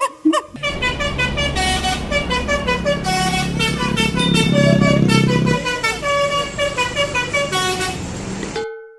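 Basuri telolet bus horn playing a quick multi-note melody over a bus engine running. The sound cuts off abruptly shortly before the end.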